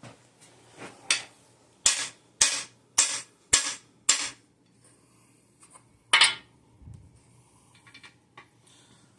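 Hammer striking a cam bearing installer tool, driving a cam bearing into its bore in the engine block: a knock about a second in, then five sharp blows about 0.6 s apart, and one more after a pause.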